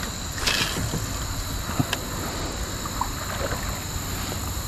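Steady water and wind noise around a kayak on a river, with a short rush about half a second in and a few light clicks and taps of gear being handled.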